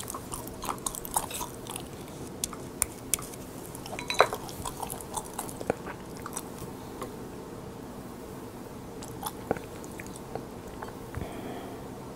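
Crisp seasoned laver (gim) sheets being bitten and chewed close to the microphone: a run of small crackling crunches, thick in the first half and thinning to quieter chewing later.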